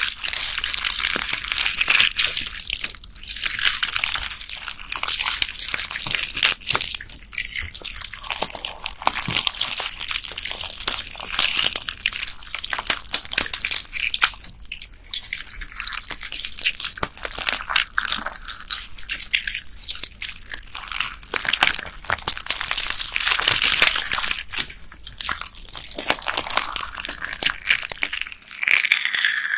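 Slime packed with beads being squeezed and pressed, giving a dense, steady run of crunchy crackling clicks that swells and eases every second or two.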